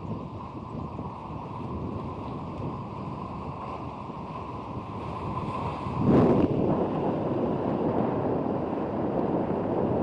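Strong wind buffeting the microphone over waves washing onto a cobble shore, a steady rushing noise. About six seconds in it suddenly grows louder and stays louder.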